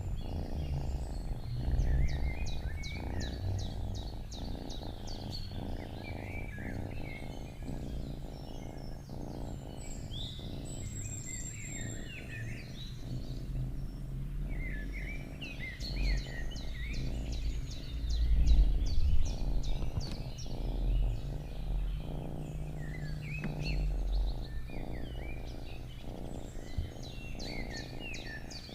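Domestic cat purring close to the microphone, a steady low pulsing rumble, while small songbirds chirp and sing rapid trills over it.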